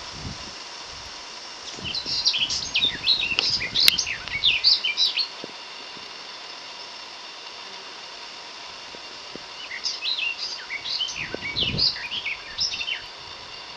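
A songbird singing two bouts of quick, high chirps, each about three seconds long, several seconds apart, over a steady outdoor hiss.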